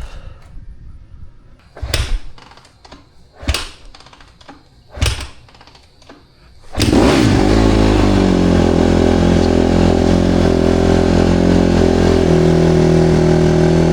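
Dirt bike engine being started: three short bursts about a second and a half apart, then it catches about seven seconds in and settles into a steady idle, run to warm the oil before an oil change.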